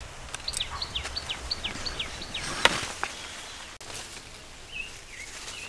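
A bird calling a quick run of about nine short falling notes, then a sharp snap a little under three seconds in, the loudest sound, with a softer one just after. A few faint chirps near the end.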